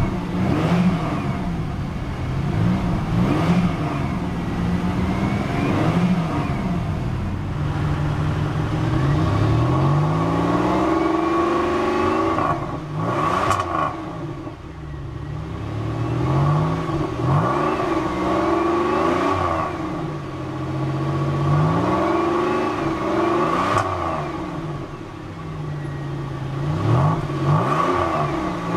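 2002 Pontiac Grand Prix GT's 3.8-litre Series II V6 revved repeatedly in park, the pitch rising and falling several times. Several rises level off and hold flat at the park-mode rev limiter, which cuts in at about 4,000 rpm.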